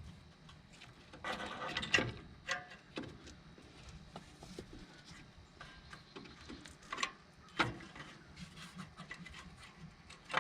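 Hand tools and metal brake parts clicking, knocking and scraping while a drum-brake wheel cylinder is worked loose from the backing plate, with a short rattle about a second in and scattered sharp clinks after.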